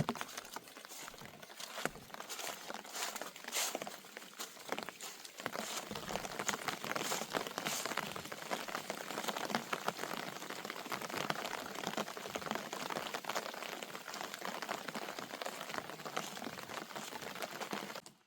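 Steady rain pattering, a dense run of small drop ticks that thickens after the first few seconds and cuts off abruptly at the end.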